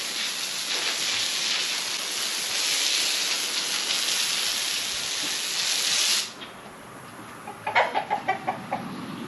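A hose nozzle spraying water with a steady hiss that shuts off suddenly about six seconds in. Near the end, poultry clucks in a quick run of short notes.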